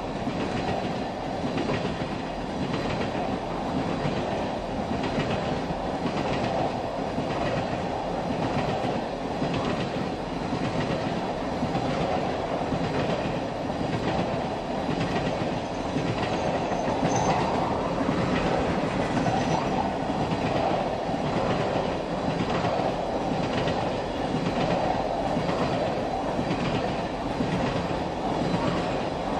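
Oil train's tank cars rolling past, steel wheels clacking rhythmically over the rail joints under a steady rumble.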